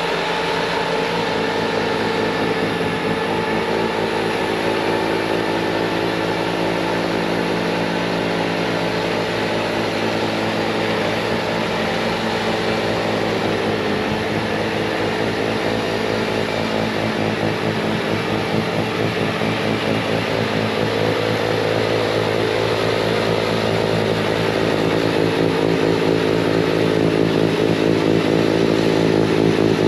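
Bobcat T66 compact track loader running at full throttle with its snowblower attachment blowing snow: a steady, loud engine sound that grows louder over the last few seconds.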